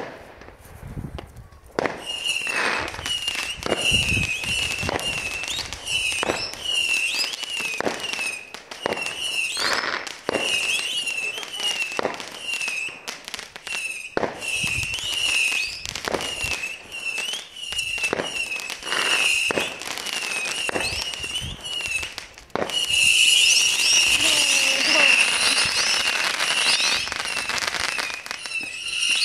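Fireworks going off in a long, quick series of bangs, each with a high wavering whistle, then a denser, louder volley of bangs and crackle about 23 seconds in.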